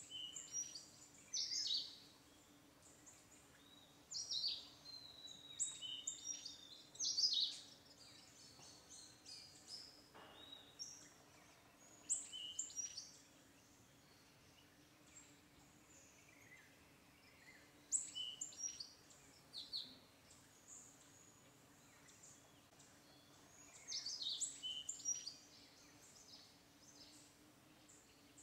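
Small birds chirping in short bouts every few seconds, many calls quick high falling notes, over a faint steady hum.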